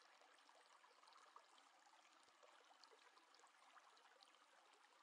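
Near silence: a faint, steady rustle with tiny scattered ticks from a watercolour brush working black paint on paper.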